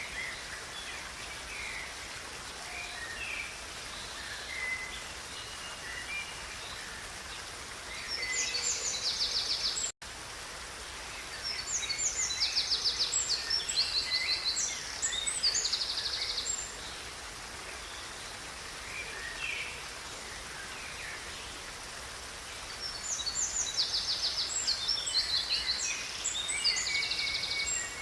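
Songbird singing three bouts of fast, high trilled phrases, with softer scattered chirps between, over the steady rushing of a river. The sound cuts out for a split second about a third of the way in.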